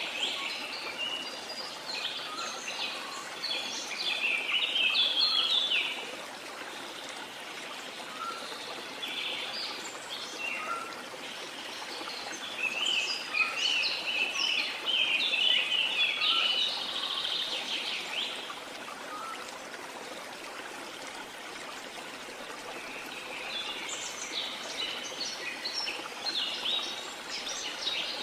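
Steady rush of a waterfall, with birds chirping over it in bouts: several seconds of song at the start, again through the middle, and near the end.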